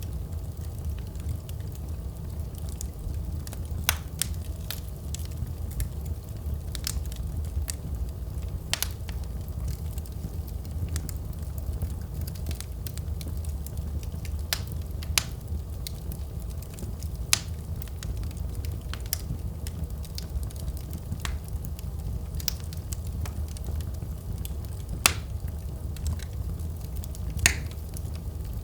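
Wood fire burning in a fireplace: a steady low rumble with irregular crackles and sharp pops, a few louder pops standing out.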